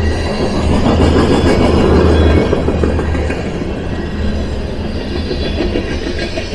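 Long freight train of covered hopper cars rolling past, a steady, loud rumble of wheels on the rails that is loudest about one to two seconds in and eases slightly after.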